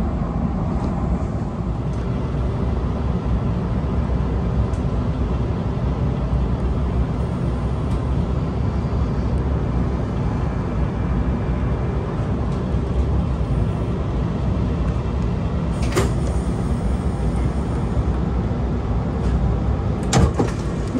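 Steady low rumble of an Oscar H-set electric double-deck train running, heard from inside the carriage. Sharp knocks come about three-quarters of the way through and again near the end.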